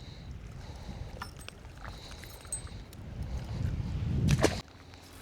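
Wind buffeting the microphone as a low rumble, with a gust building about three seconds in that cuts off abruptly near the end. A few faint clicks sound over it.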